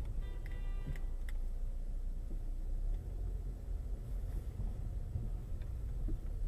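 Steady low rumble of a car driving, heard from inside the cabin on a dashcam, with a brief pitched tone lasting under a second about half a second in.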